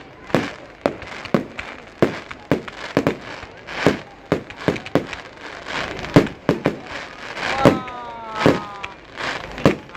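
Fireworks display: aerial shells bursting in quick, irregular succession, roughly two loud bangs a second, each with a short echo.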